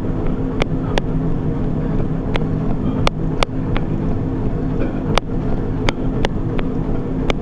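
A treadmill running under a runner: the belt and motor hum steadily and low, with sharp footfall slaps on the deck about every half second.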